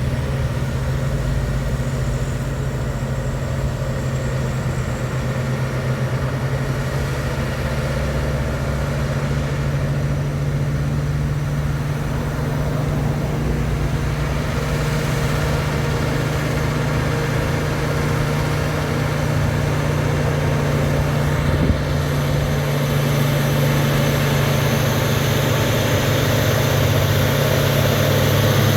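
Heavy truck's diesel engine running steadily at a low, even speed, with a brief knock about two-thirds of the way through.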